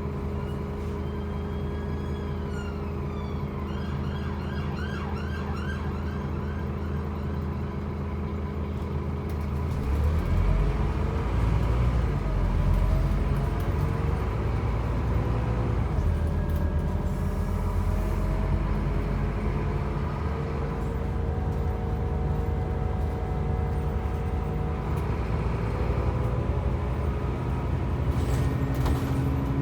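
Scania N270UB OmniCity bus's diesel engine idling steadily, then from about ten seconds in getting louder as it pulls away and runs under load. A siren wails and then yelps briefly in the first few seconds.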